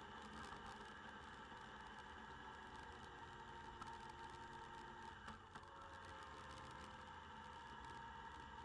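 Faint, muffled sound of a motorcycle riding along, picked up by its bike-mounted camera's microphone: a steady hum with constant light crackling.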